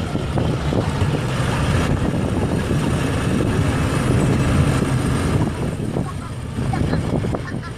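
An engine running steadily at a low hum.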